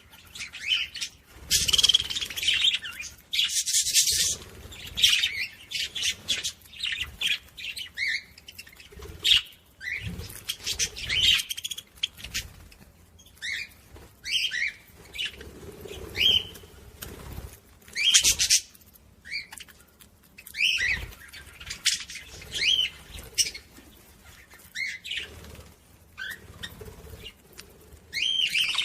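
Budgerigars chattering: quick, high chirps and warbles mixed with harsh squawks, in irregular bursts with short gaps between.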